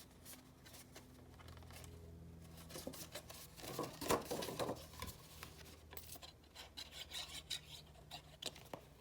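Faint rustling and rubbing of cardstock being handled and pressed together as the folded edges of a box lid are glued, with scattered small clicks and a faint steady low hum underneath.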